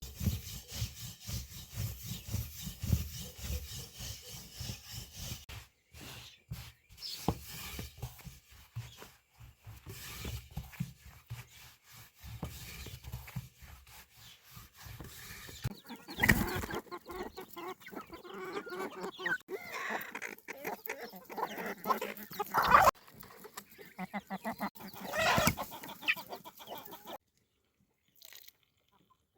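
Chickens clucking in a busy run of short, rapid calls, loudest in the second half, cutting off suddenly near the end.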